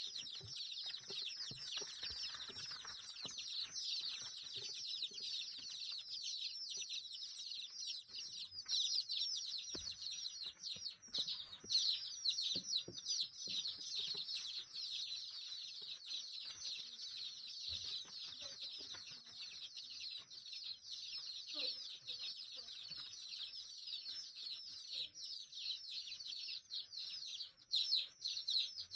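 A crowd of small birds chirping nonstop, with many short high chirps overlapping into one continuous chatter.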